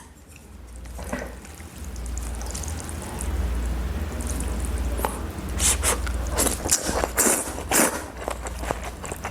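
Close-miked eating sounds: wet mouth noises and chewing, turning into a quick run of sharp slurps and smacks from about five seconds in, over a low steady hum.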